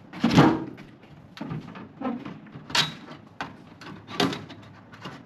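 Knocks and clatter of microwave parts being handled and clipped into place, about five separate knocks with the loudest near the start.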